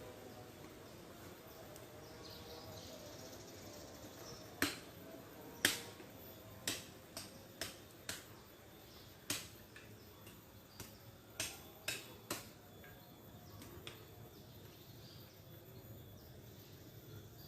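About a dozen sharp, irregularly spaced snaps or knocks over several seconds, starting a few seconds in, over a faint outdoor background.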